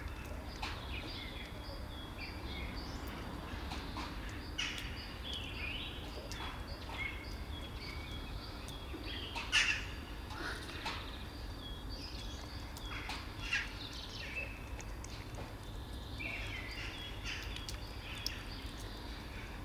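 Small birds chirping and twittering in short, repeated calls over a steady low background rumble, with one brief, sharper and louder sound about halfway through.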